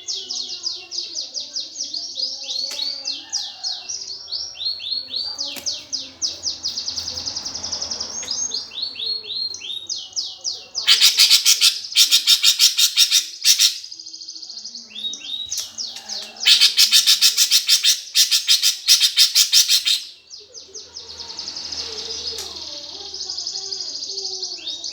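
Eurasian tree sparrows chattering in fast, rapidly repeated chirp series, the agitated calling of sparrows fighting. Two much louder, harsher bursts of chatter come about halfway through and again a few seconds later.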